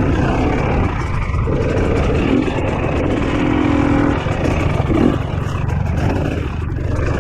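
Dirt bike engine running and revving unevenly at low speed while picking its way over rocks.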